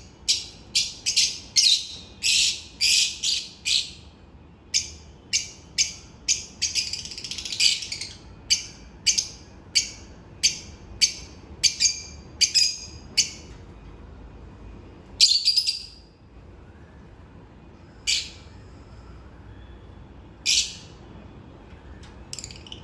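Lovebirds chirping: short, high-pitched calls in quick succession, about two or three a second, thinning after about thirteen seconds to a few scattered calls, with one longer, louder call about fifteen seconds in.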